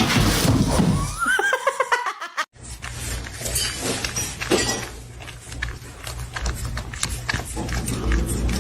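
A high, wavering animal call lasting about a second, with a whinny-like rise and fall, that breaks off abruptly. After a hard cut it gives way to a steady low hum with scattered light clicks.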